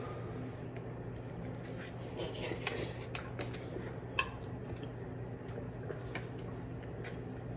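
Quiet eating sounds: light clicks of a utensil against a dish, with one sharper click about four seconds in, over a steady low hum.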